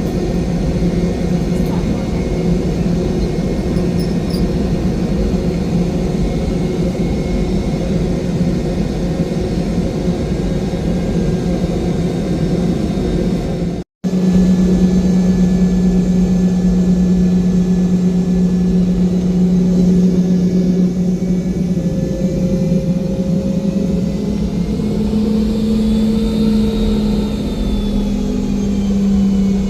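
Steady drone of a Boeing 717-200's rear-mounted Rolls-Royce BR715 turbofan engines heard inside the cabin in flight. The sound cuts out for an instant about halfway through, and the engine tone rises slightly in pitch near the end.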